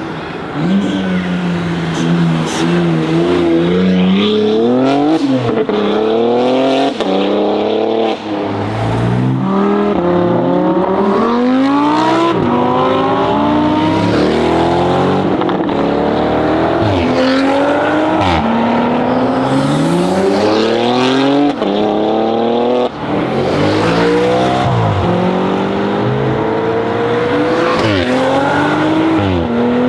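Loud BMW X3 M Competition twin-turbo inline-six through a custom exhaust, accelerating hard: the engine note rises again and again, dropping back at each upshift before climbing once more, with several sharp cracks along the way.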